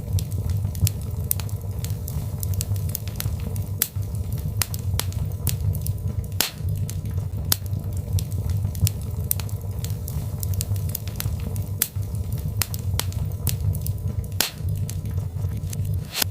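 Birch logs burning in a fireplace, crackling with frequent sharp, irregular pops over a steady low rumble.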